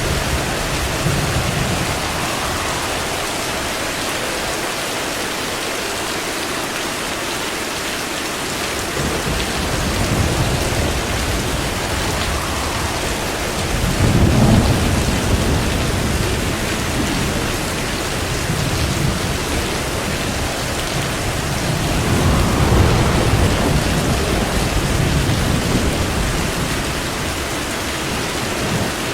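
Steady heavy rain with rolling thunder: low rumbles swell and fade about ten seconds in, more strongly around halfway, and again in the second half.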